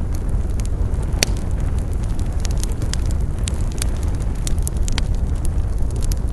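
Campfire of burning wood crackling, with many sharp pops and snaps over a steady low rumble; one louder pop about a second in.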